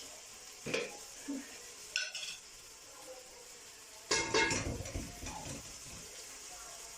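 Metal spoon clinking and scraping against a cooking pot while paste is added and stirred in: a few short ringing clinks, then a longer, louder clatter about four seconds in.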